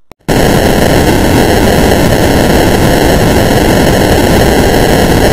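Loud, steady static-like hiss of white noise. It starts abruptly a moment in, after a couple of faint clicks and a brief silence.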